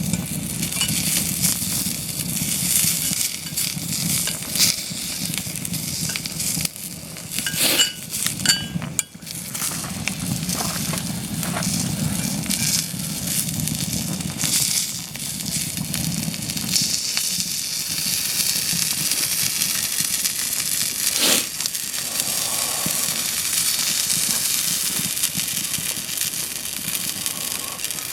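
A hot dog sizzling in a small cast-iron skillet over a wood campfire. The fire crackles under it, with a few sharp clicks and knocks, including a cluster a little over a quarter of the way in.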